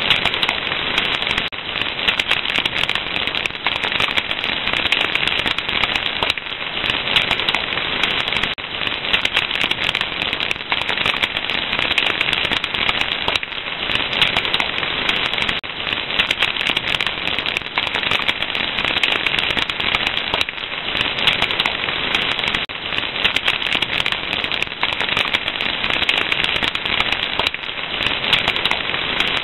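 Wood fire crackling: a dense, steady stream of small snaps and pops over a soft hiss.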